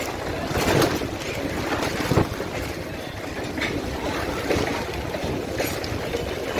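Freight train of hopper wagons rolling past at close range: a steady rumble of wheels on rail, with a sharp clack every second or so.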